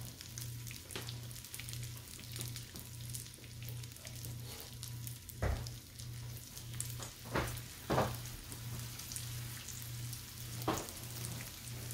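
Breaded chicken breasts sizzling steadily in shallow oil and butter in a stainless-steel skillet. A few sharp knocks, from the second half onward, come as tongs lay a second piece into the pan.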